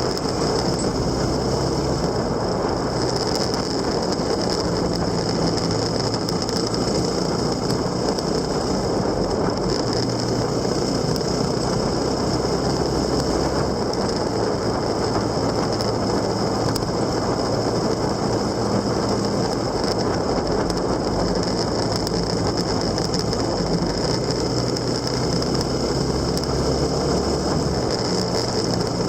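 Vehicle engine running steadily while riding, heard from on board, its low note shifting in steps a couple of times as speed or gear changes, with a constant high whine above it.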